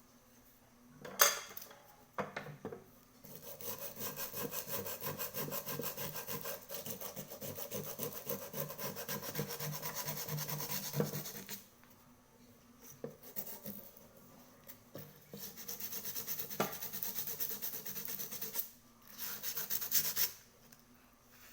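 Fast, even back-and-forth scraping strokes of a hand tool working the small cauldron, as in filing or sanding, in two long spells with a short burst near the end. A single sharp knock comes about a second in.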